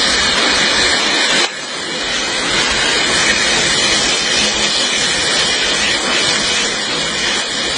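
Steady hissing rush of spraying water, dropping suddenly in level about one and a half seconds in, then slowly building again.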